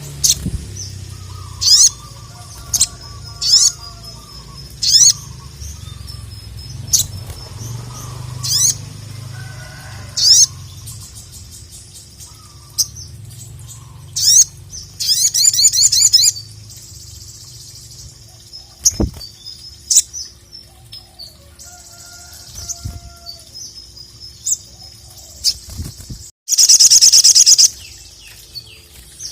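Ruby-cheeked sunbird (sogok ontong) calling: sharp, high chirps repeated every second or so, a fast rattling trill about halfway through, and a loud buzzy trill lasting over a second near the end.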